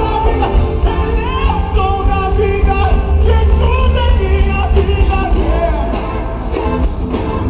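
Live band playing a rock-style song with strong, steady bass under sung vocals.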